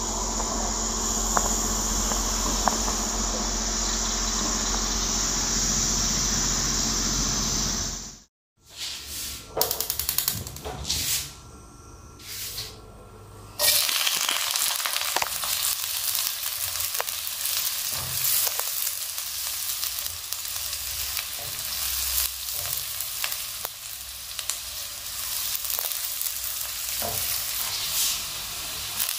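A steady outdoor insect chorus with a high, even buzz breaks off suddenly about eight seconds in. After a few seconds of near quiet with scattered knocks, food starts sizzling and crackling as it fries in a pan, with small pops, and this runs on to the end.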